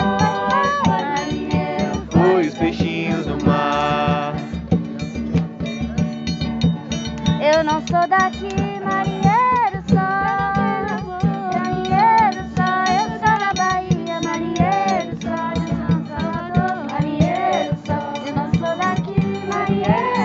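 Group singing of a Brazilian folk song with instruments and a steady rhythmic beat.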